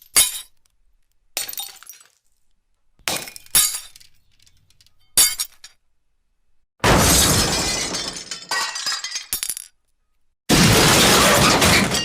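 Glass breaking: five separate sharp smashes, each with a short tinkling tail and silence between. About halfway through come two longer shattering crashes of two to three seconds each, the second near the end.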